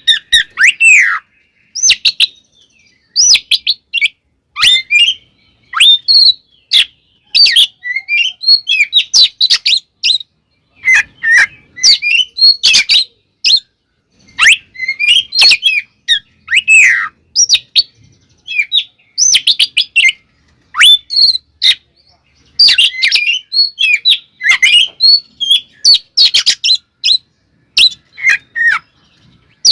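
Oriental magpie-robin (kacer) singing loudly in quick phrases of sharp chirps and whistles, one after another with short pauses. This is the agitated fighting song, played to provoke other magpie-robins into singing.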